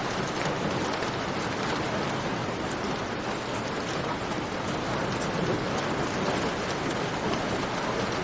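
Steady rain, an even hiss of falling water, with scattered faint crackles of a campfire ticking through it.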